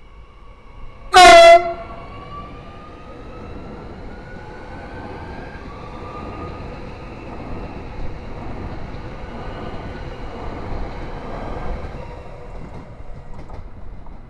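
Transilien Z50000 electric multiple unit sounds one short, very loud horn blast about a second in, then runs past: wheels rumbling on the rails and a motor whine rising in pitch, dying away near the end.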